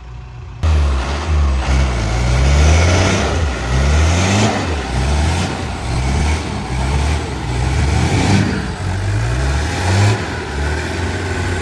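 Off-road 4x4 engine revving, its pitch rising and falling again and again, starting abruptly about half a second in.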